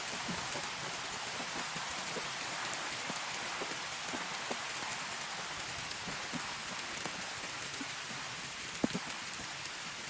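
Heavy rain falling steadily, with scattered louder single drops ticking on a near surface and one sharper tick about nine seconds in.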